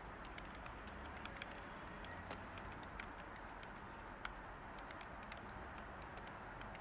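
Light typing on a computer keyboard: irregular key clicks, several a second, over a steady white-noise hiss.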